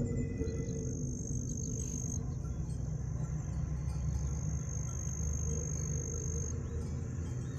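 Insects trilling, a steady high-pitched tone held for about two seconds near the start and again for about two seconds past the middle, over a constant low rumble.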